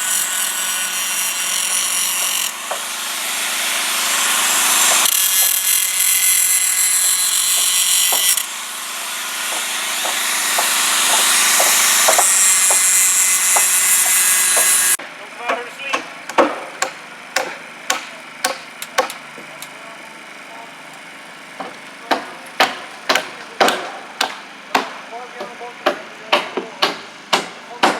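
A power saw cutting wood in several long cuts that stop and restart, then a hammer driving nails with steady repeated blows for the second half.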